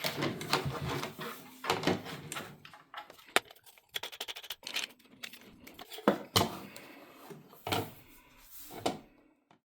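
Handling noise: a run of irregular knocks and clicks, as of hard objects being set down and moved, which stops abruptly near the end.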